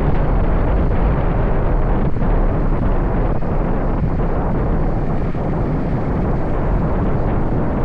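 Wind rumbling on the microphone of a moving motorbike, a steady low noise with the bike's engine and road noise beneath it.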